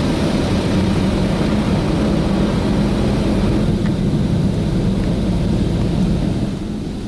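D&S IQ Touch Free 2.0 touchless car wash running a wash pass, a loud steady roar of machinery and water on the car heard from inside the cabin, easing off near the end.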